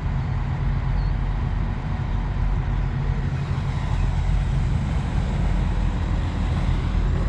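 Steady low engine drone of idling diesel vehicles, even throughout.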